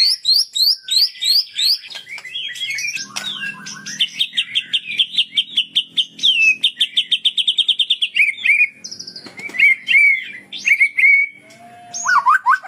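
Kapas tembak songbird singing a continuous chained song of quick chirps and whistled glides, with a long run of rapid repeated notes, about five a second, in the middle.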